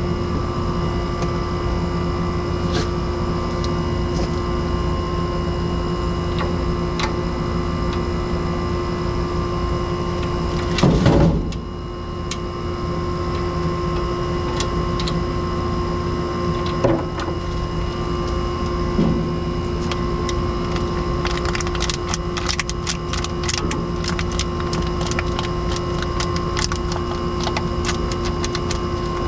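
Steady mechanical hum throughout, with a loud scrape or knock about eleven seconds in. From about two-thirds of the way through come rapid, irregular clicking taps: ice being tapped against a hot air-conditioner compressor to cool it so its tripped thermal switch closes again.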